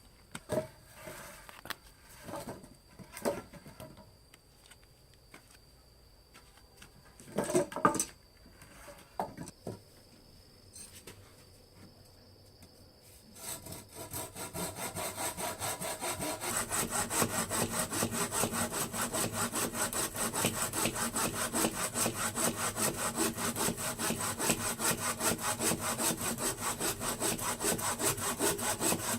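Hand saw cutting wood with rapid, even back-and-forth strokes, starting about halfway in and growing louder. Before that come a few scattered knocks and a faint steady high whine.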